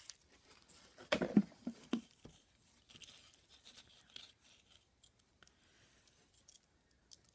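Rustling and crinkling of small plastic bags and packaging being handled, in scattered faint bursts, with a brief louder sound about a second in.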